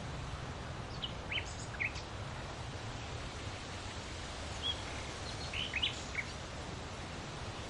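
Steady wind noise with a low rumble, and short bird chirps in small clusters about a second in and again around five to six seconds in.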